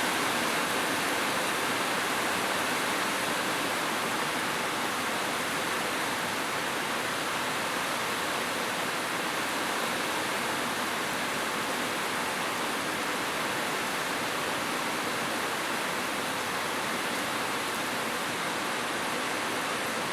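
Heavy rain falling steadily on a roof, a dense even hiss with no thunder.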